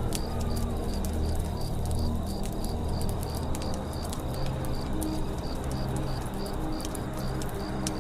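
Campfire crackling with frequent sharp pops, over a forest background of low bird cooing and a steady high chirp repeating about three times a second.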